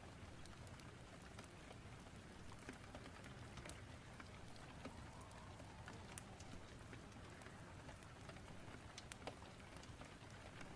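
Faint rain-and-fireplace ambience: a steady hiss of rain with many scattered sharp crackles and pops.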